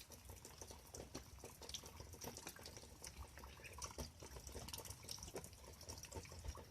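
Faint trickle of water with many scattered small drips: rainwater running out of a hole poked in an overflowing gutter.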